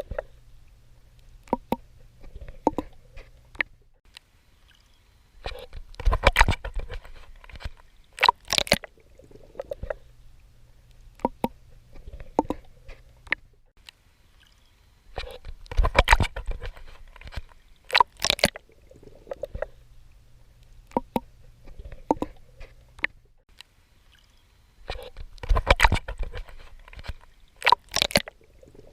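Water splashing and sloshing from a swimmer's strokes, with sharp clicks and drips. A louder burst of splashing comes about every ten seconds, with a low, muffled rumble between the bursts.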